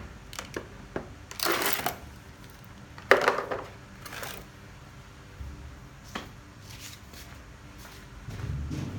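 Handling noise while a drill bit and a block of wood are being set up: a string of clicks, knocks and short scraping rustles, loudest about three seconds in. The drill motor is not running.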